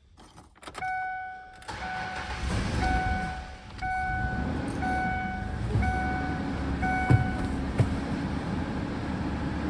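2002 Ford Explorer Sport Trac's 4.0L SOHC V6 started about two seconds in and then idling. A dashboard warning chime rings about once a second over the engine for the first seven seconds or so.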